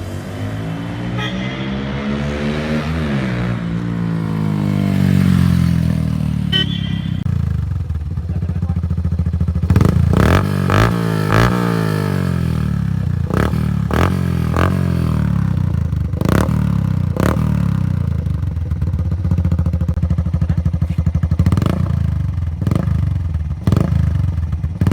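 Yamaha FZ-S 150 cc single-cylinder engine running through an aftermarket free-flow exhaust while the bike is ridden, its revs rising and falling several times. Short sharp clicks or pops are scattered through the sound.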